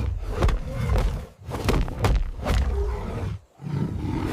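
A lion and a tiger roaring and snarling as they fight. The loud, rough roars break off briefly about a second and a half in and again near the end.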